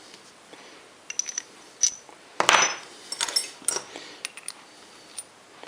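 Small metal parts clinking and clattering as they are handled: a few light clicks, a louder clatter about two and a half seconds in, then more scattered clinks with short metallic pings.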